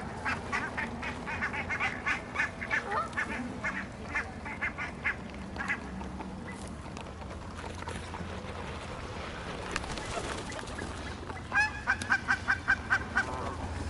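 Barnacle geese calling with many short honks, thick over the first few seconds, then a quick run of about eight honks near the end.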